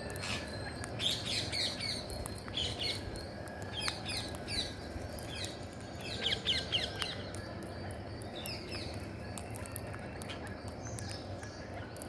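Birds chirping in several quick runs of short, falling high chirps, over a steady low background hum.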